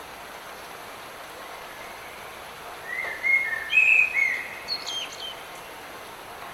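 Light rain falling as a steady soft hiss, with a songbird singing one short phrase of bright whistled notes partway through.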